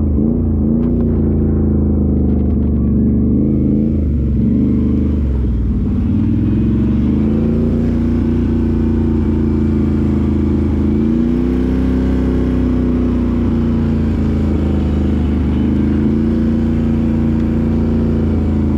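Can-Am Renegade ATV's V-twin engine running, its revs rising and falling repeatedly with the throttle.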